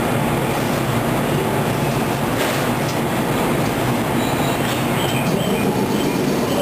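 JR 113 series electric train sets during coupling, giving a steady running and equipment noise. Faint, brief squeals from wheels or brakes come in the second half.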